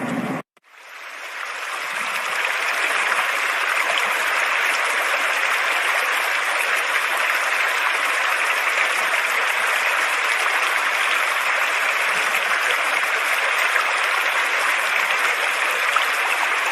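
Flowing water running steadily with an even rushing hiss, fading in over the first couple of seconds.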